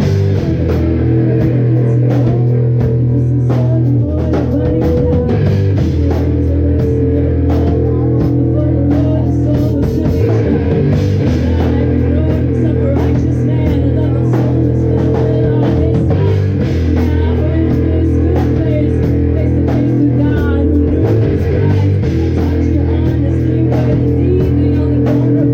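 Live rock band playing loudly and steadily: electric guitar over a drum kit, with sustained low notes underneath.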